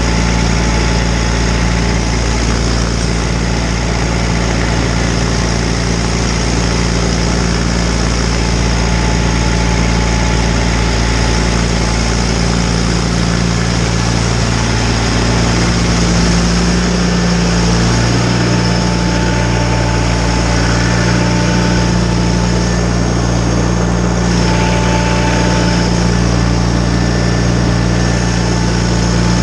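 John Deere 318 garden tractor's Onan two-cylinder engine running steadily while driving a Model 49 snowblower. The engine note shifts slightly a little past halfway through.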